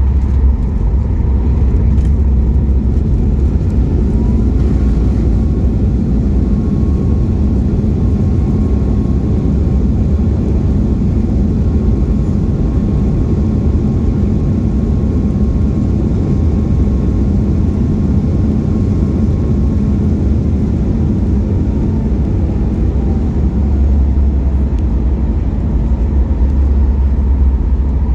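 Steady cabin rumble inside a Boeing 737 MAX 8 on the ground after landing, from its CFM LEAP-1B engines and the airflow. A faint high whine holds steady, then falls in pitch about twenty seconds in.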